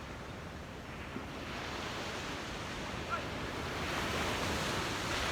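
Ocean surf washing onto the beach, a steady rush of noise that swells louder from about a second and a half in.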